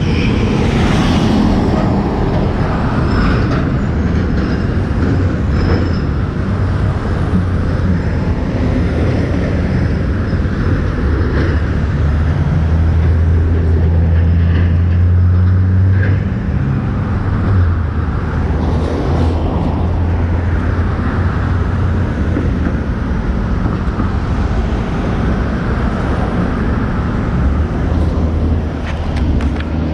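Motorcycle engine running continuously amid road and traffic noise, its low hum steadiest and loudest around the middle.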